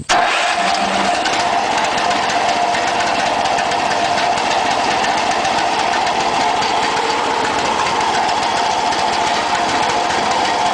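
Boaz mini combine's gasoline engine, started on choke, kicking in abruptly and then running steadily at an even speed.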